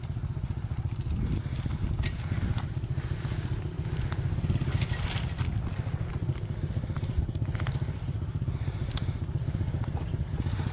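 110cc Honda Win single-cylinder motorcycle engine running steadily at idle, with a few short clicks scattered over it.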